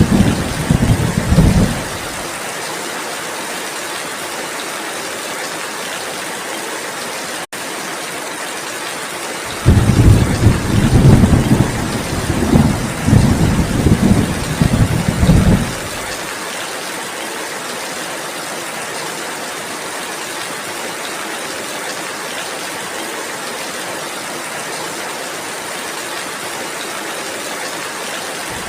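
Steady heavy rain hissing, with rolling thunder rumbling low and loud for the first couple of seconds, again for about six seconds from ten seconds in, and once more right at the end. A split-second dropout breaks the sound about a third of the way through.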